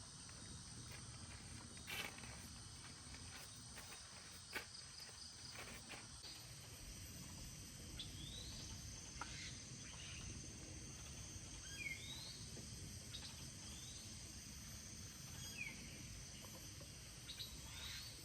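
Faint tropical forest ambience: a steady, high-pitched chorus of insects such as crickets, with a few short rising chirps scattered through it and a few soft clicks in the first half.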